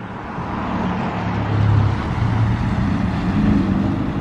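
Triumph TR250's 2.5-litre straight-six engine running as the car rolls in at low speed, getting louder over the first two seconds as it comes closer, then holding steady.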